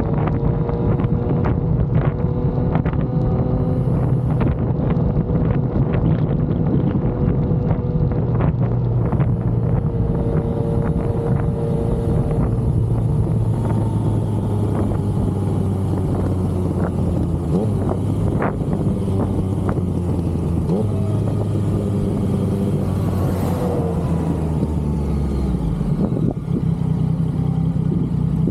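Yamaha XSR900's three-cylinder engine running while the motorcycle is ridden at a fairly steady pace, its revs drifting slightly up and down, with a small change in engine note about 26 seconds in. Wind rushes over the microphone throughout, with scattered short clicks in the first ten seconds.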